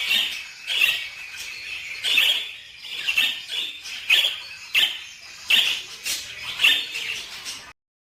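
Small cage birds chirping: short, sharp calls about once a second over a thin, steady high note. The sound cuts off suddenly near the end.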